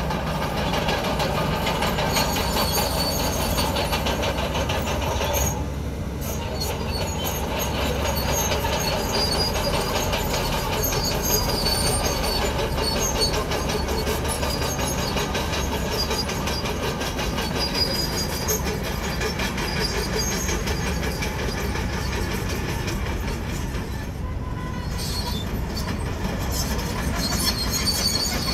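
Komatsu crawler bulldozer working, its engine running steadily under a continuous metallic squealing and clanking from its steel tracks, easing off briefly twice.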